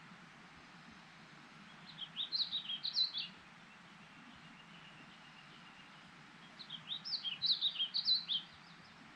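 A songbird singing two short, rapid warbling phrases of jumping high notes, about four seconds apart, over a faint steady background hiss.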